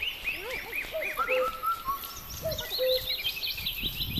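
Birds chirping, with many short rising-and-falling calls repeated in quick succession at both high and middling pitch. Low thumps come in during the second half.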